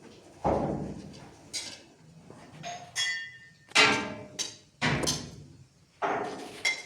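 A series of about seven sharp, irregular knocks and clinks of hard objects being struck or set down, several ringing briefly.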